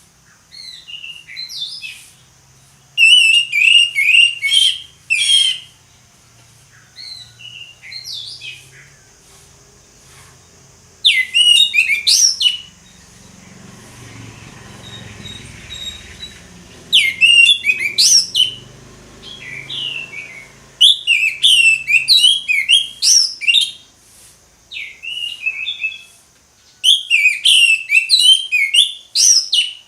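Orange-headed thrush singing its loud full song: phrases of fast, varied, sweeping high notes, each lasting a second or two, separated by short pauses.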